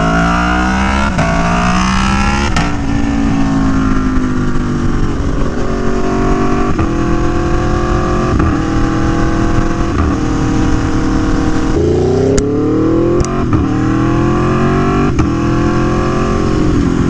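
Aprilia Tuono V4 1100 Factory's V4 engine through an SC Project CR-T exhaust, accelerating with its pitch rising. The pitch drops at gear changes about two and a half seconds in and again near twelve seconds, then climbs steeply.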